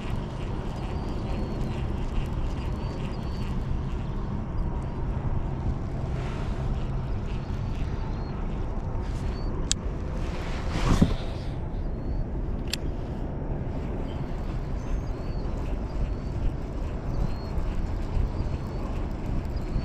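Wind buffeting the microphone in a steady low rumble, with small bird chirps repeating faintly behind it. About halfway through there is one louder whoosh, with a sharp click shortly before it and another shortly after.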